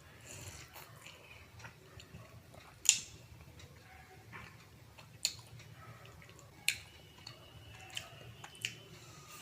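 Close-up eating sounds of soft, syrupy rasgulla being chewed, with a handful of sharp mouth clicks, the loudest about three seconds in.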